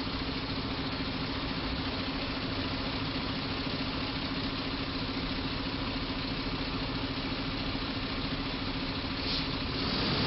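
A vehicle engine running steadily, with one constant low hum over a rushing noise that does not change.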